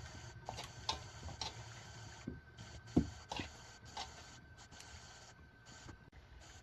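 Irregular light knocks and clicks, about a dozen, the sharpest about three seconds in, over a faint steady tone that stops near the end.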